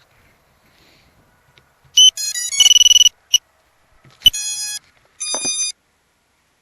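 Electronic beeps in short runs of stepped pitches, starting about two seconds in, with one held high beep around three seconds and two more quick runs of tones later.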